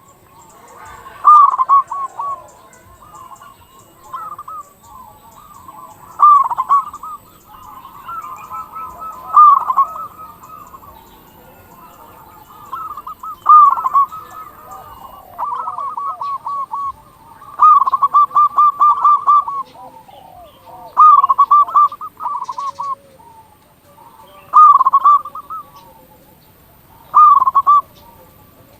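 Zebra dove (perkutut) singing: repeated cooing phrases, each a quick run of short, clipped notes, one every two to three seconds.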